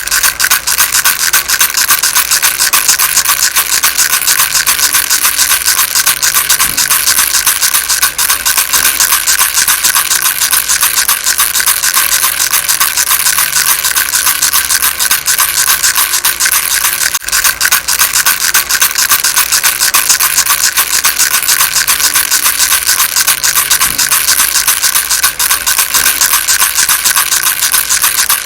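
Baby rattle shaken without pause: a dense, steady rattle of fine grains.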